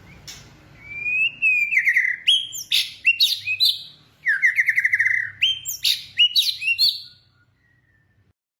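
A bird singing in two phrases of rapid, high-pitched trilled notes with quick upward and downward sweeps. The first starts about a second in, the second just after four seconds in, and the song stops about seven seconds in.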